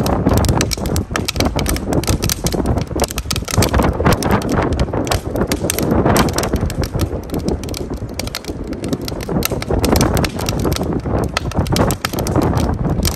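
Wood fire crackling with many sharp pops and snaps, over low wind rumble buffeting the microphone.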